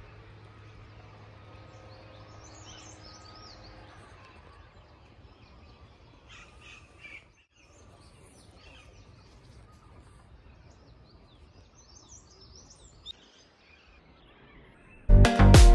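Quiet outdoor ambience with a low hum that fades over the first few seconds and small birds chirping now and then. About fifteen seconds in, loud music with a strong beat cuts in.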